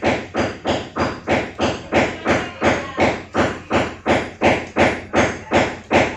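Steady rhythmic chopping on a cutting board, a sharp knock about three times a second.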